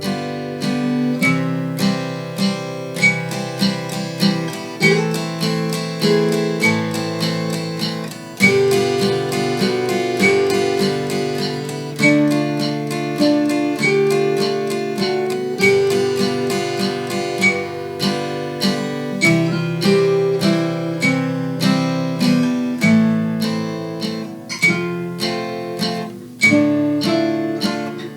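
Acoustic guitar strummed in a three-beat waltz rhythm (bass note, then two strums) at about 100 beats per minute, moving through a chord progression that starts on D minor.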